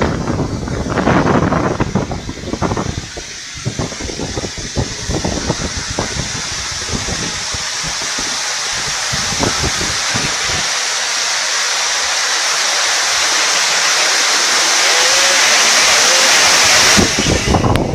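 Hailstorm: hail and heavy rain pelting down as a dense, steady hiss that grows gradually louder, then cuts off abruptly near the end. Gusts of wind buffet the microphone in the first few seconds.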